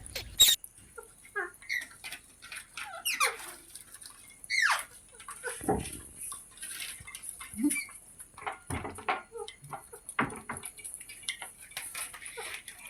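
Green parrots giving short squeaks and chirps, a few sliding down in pitch, mixed with small clicks and taps.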